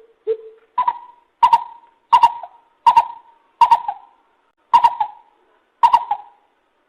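Lesser coucal calling: a run of separate notes, two lower ones at the start, then seven higher-pitched ones about two-thirds of a second apart, spacing out a little toward the end.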